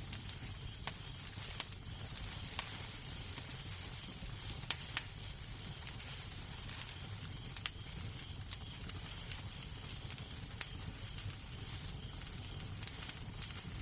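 Fireplace crackling: a steady low rumble and hiss of burning logs with irregular sharp pops and snaps.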